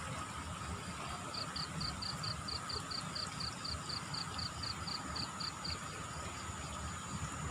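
A steady rush and low rumble of fast-flowing floodwater, with a high chirp repeated about four times a second for some four seconds in the middle.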